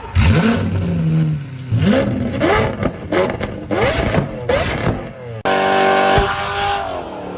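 Car engine revved in repeated short blips, each rising in pitch, with sharp exhaust pops and bangs of backfire between them. About five and a half seconds in, the sound cuts to an engine held steady at high revs.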